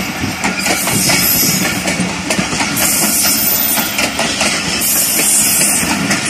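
Passenger train coaches rolling past close by: steady wheel-on-rail noise with irregular clacks as the wheels cross rail joints.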